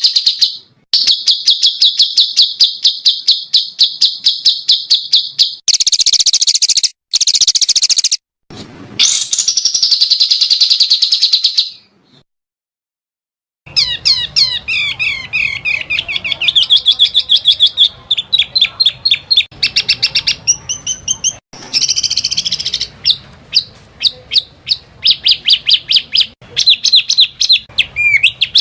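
Small songbirds singing rapid 'tembakan' trills: fast runs of sharp, high repeated chips. The recording is spliced, with abrupt cuts between clips and a silent gap about twelve seconds in.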